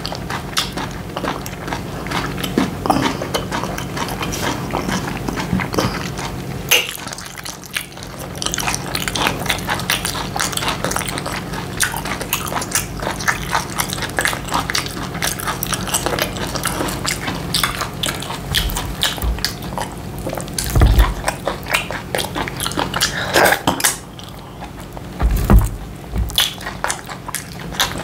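Close-up wet chewing and mouth clicks of someone eating semolina fufu with slimy ogbono soup, over a low steady hum.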